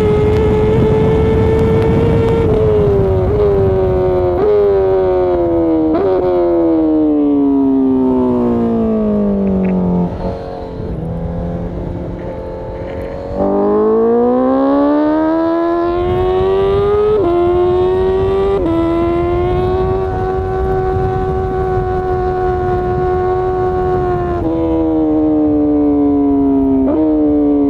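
2020 Honda CBR1000RR-R Fireblade's inline-four engine under riding. Revs hold steady, then fall as it slows, with short upward jumps at each downshift. It drops to low revs and goes quieter for a few seconds. Then it accelerates hard about halfway through, with rising revs, holds a steady cruise, and slows again with more downshift jumps near the end, over a rush of wind noise.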